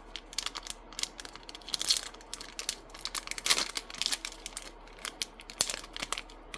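Foil trading-card booster pack being torn open and crinkled by hand: a run of sharp crackles, loudest about two seconds in and again near the middle.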